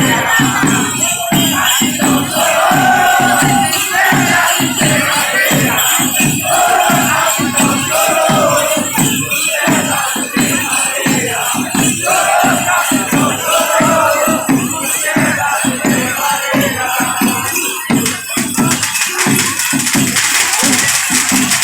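Congada folk music: a steady drum beat of about three strokes a second, with shakers and rattles, under a group singing in phrases. The singing stops near the end while the drums and rattles go on.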